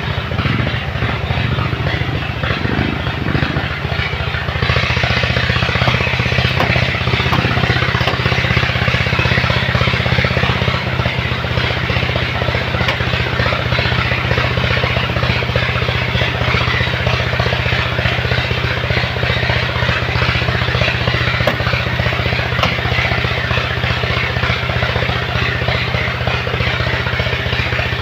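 Truck engine running steadily, growing louder and more rushing from about five seconds in and then holding at that level.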